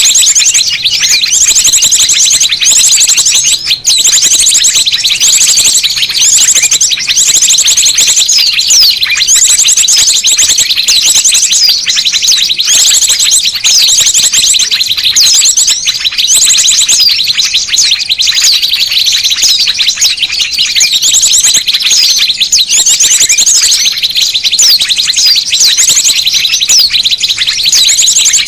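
Dense, noisy chorus of small songbirds: many high chirps, short sweeps and fast trills overlapping without pause, played as a lure call (suara pikat) to draw small birds in.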